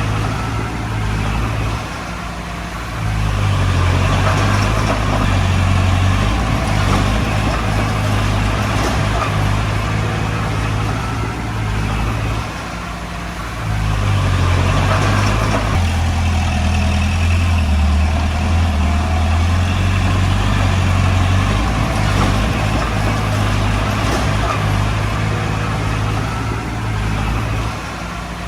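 Komatsu D20P bulldozer's diesel engine working. It runs loud and steady and eases off briefly about two seconds in, again about halfway through and near the end, in the rise and fall of throttle between pushes.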